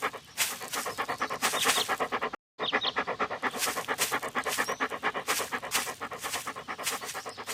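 Dog panting rapidly and evenly, with a short break in the sound about two and a half seconds in.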